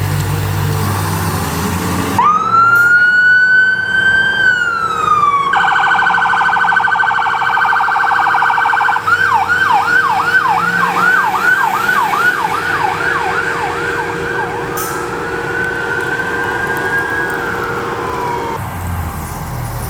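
Electronic emergency-vehicle siren switching through its tones: a slow rising and falling wail, then a very fast warble, then a quick yelp of about two to three sweeps a second, then the wail again, which cuts off near the end. Road traffic noise runs under it before the siren starts.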